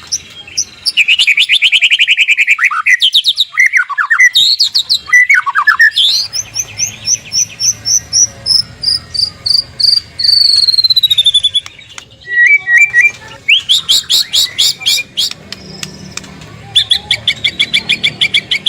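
White-rumped shama (murai batu) singing a varied run of phrases: rapid trills, swooping notes, and a long string of quick notes that slides steadily down in pitch. Short pauses fall between phrases, then fast trilling returns near the end.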